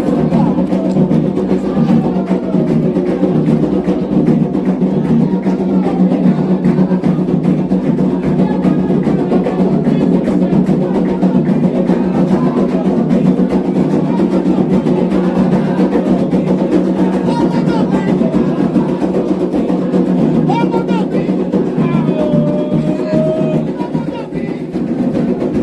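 Candomblé ritual music: atabaque hand drums beating a fast, dense rhythm, with voices singing over it.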